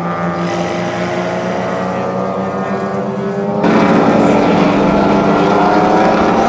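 Racing touring-car engines at high revs, their pitch climbing slowly as the cars accelerate. About three and a half seconds in, the sound suddenly gets louder and fuller and stays that way.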